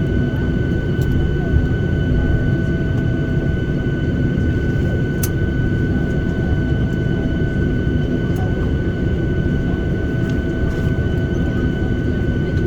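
Cabin noise of a Boeing 737-800 taxiing with its CFM56 engines at idle: a steady low rumble with a steady high whine over it.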